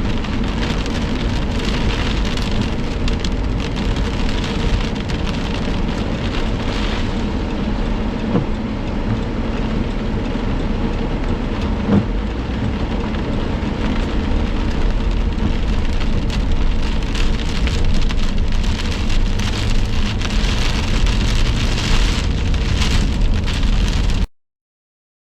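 Heavy thunderstorm rain falling hard, a dense steady noise of many drop hits with a low rumble underneath. It cuts off suddenly near the end.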